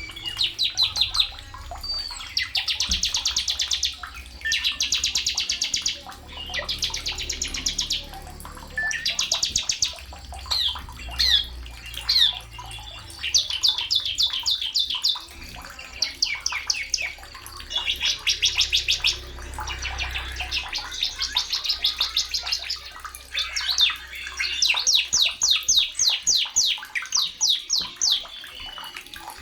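A sogon songbird singing: phrases of rapid, evenly repeated high notes, each about one to two seconds long, with short pauses between them, over a faint low hum.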